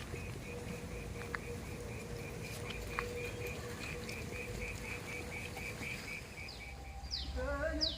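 Insect chirping steadily in a fast even pulse, about four to five chirps a second, cricket-like. Near the end a goat gives a short wavering bleat while a bird repeats quick falling whistles.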